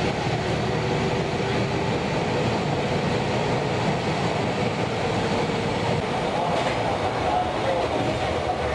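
Cabin sound of a JNR 413 series electric multiple unit running: a steady, loud rumble of traction motors and wheels on the rails, which the rider calls a very loud motor.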